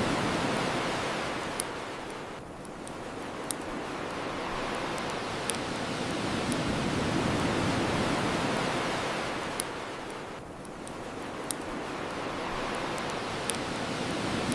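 Ocean waves washing onto a shore, the surf swelling and falling back about every eight seconds, with single sharp pops from a crackling bonfire about every two seconds.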